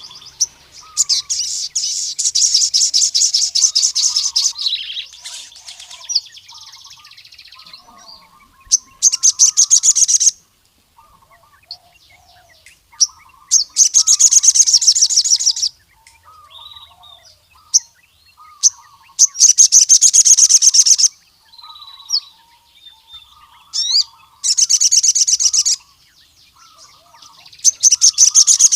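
Sogon sunbird singing: loud, rapid high trilling bursts of one to three seconds, repeated about every five seconds, with softer chirps between them.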